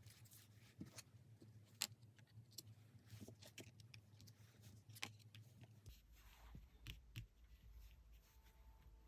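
Faint handling of tarot cards: scattered light taps and soft slides of cards. A low hum comes in about six seconds in.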